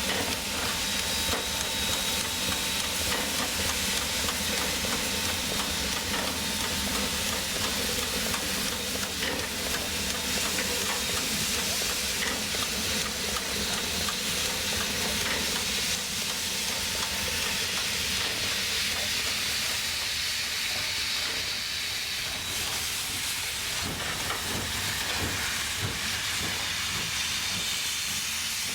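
Steam locomotive hissing steadily, a continuous rush of escaping steam with no break.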